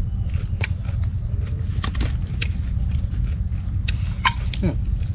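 Crunchy chewing of crisp deep-fried fish, with chopstick clicks: a few sharp crackles over a steady low rumble.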